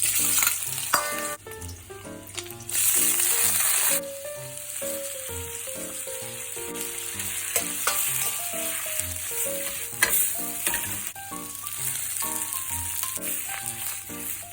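Vegetables sizzling as they stir-fry in a hot pan, loudest in the first four seconds. Background music with a light melody plays underneath.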